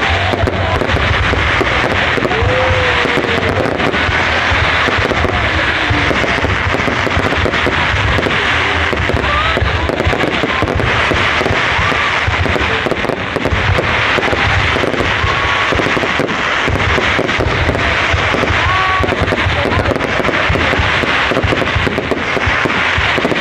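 Dense, continuous crackling and popping, many sharp pops packed close together without a break.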